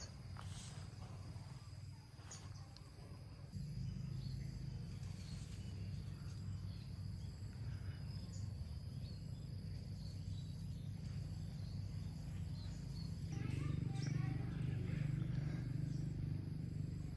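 Outdoor ambience: a steady low rumble that gets louder about three and a half seconds in and again near the end, under a thin, steady high-pitched insect drone.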